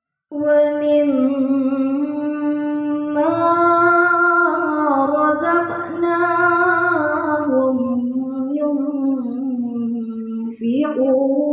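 A young student's melodic Quran recitation (tilawah): one long, drawn-out ornamented phrase, the voice sustained and gliding up and down in pitch. A short break comes about ten and a half seconds in before the next phrase begins.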